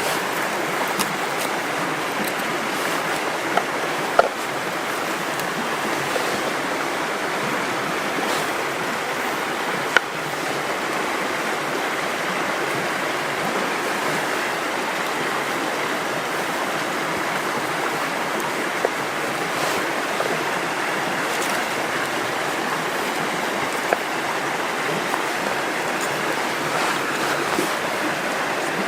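River water flowing steadily, with a few sharp clicks now and then.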